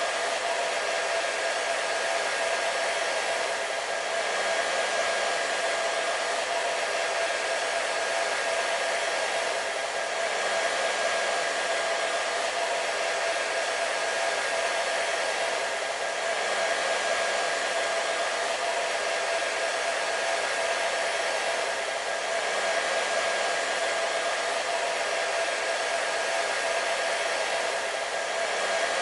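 Hair dryer running continuously: a steady rush of air with a constant motor whine on top.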